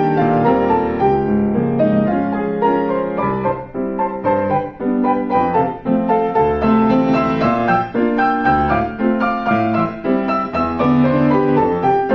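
Piano four-hands duet, two players at one piano, playing a slow-moving piece of many overlapping sustained notes over a bass line.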